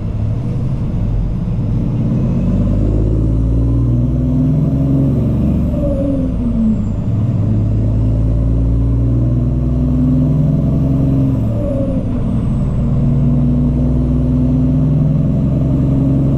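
Cummins ISX diesel in a Peterbilt 379 semi truck pulling through the gears. Engine speed climbs, drops sharply at an upshift about six and a half seconds in and again near twelve seconds, then climbs again.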